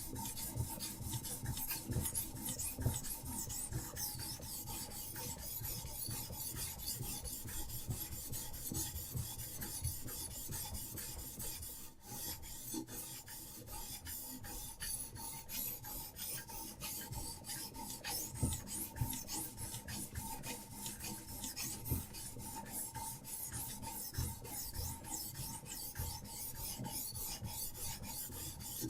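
A diamond sharpening stone rubbing back and forth along a survival knife's blade in a Hapstone RS guided sharpening system, in quick, even rasping strokes. The strokes break off briefly about twelve seconds in, then carry on.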